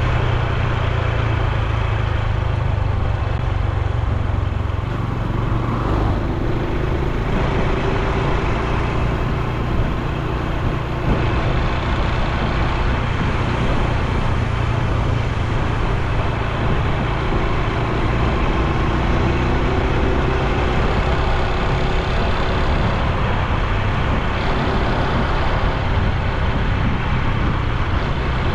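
Honda Super Cub C125's air-cooled single-cylinder engine and exhaust running while riding, its note drifting up and down a little with speed, over rushing wind and road noise.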